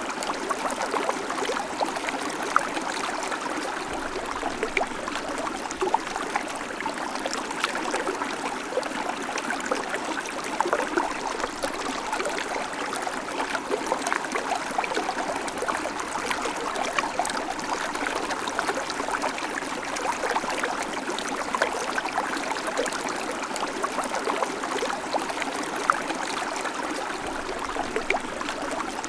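A babbling creek: water running and splashing over stones in a steady, even rush, flecked with many small bright splashes and trickles.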